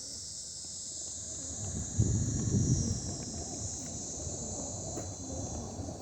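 A steady high-pitched chorus of insects, with a louder low rumble swelling about two seconds in and easing off a second later.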